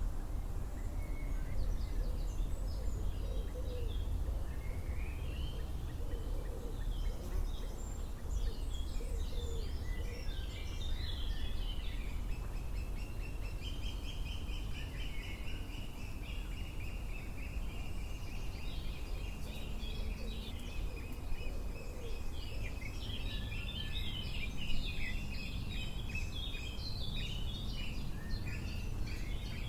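Several songbirds singing, with varied chirps and a long, steady high trill from about halfway through, over a constant low rumble. A single short knock sounds near the end.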